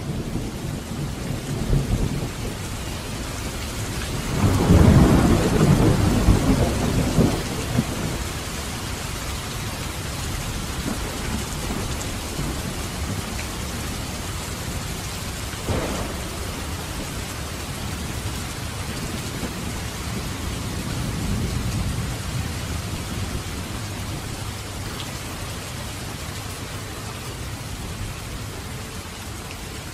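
Steady rain falling on a roof and dripping from its edge, with a loud low roll of thunder about four seconds in that fades by about eight seconds. A single sharp crack comes about halfway through, and a fainter rumble a little later.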